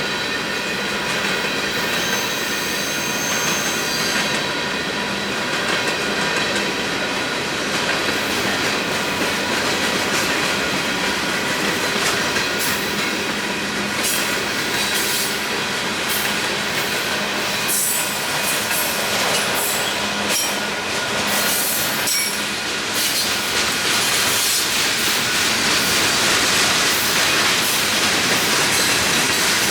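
Union Pacific freight train cars rolling past on the rails: a steady loud rumble and clatter with thin, high wheel squeal and scattered clicks from the wheels.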